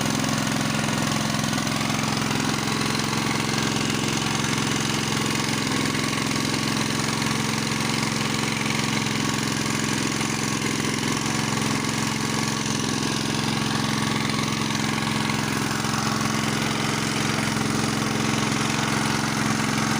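Small petrol engine driving the drilling water pump, running steadily at a low, constant throttle while it flushes water through the new borehole.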